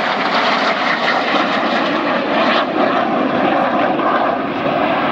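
Jet noise from Red Arrows BAE Hawk T1 trainers flying their display, a steady, loud rushing sound that holds at one level throughout.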